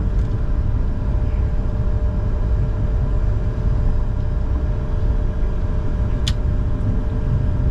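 Cockpit noise of a Bombardier Challenger 605 business jet taxiing: a steady low rumble with a constant hum, and a single sharp click about six seconds in.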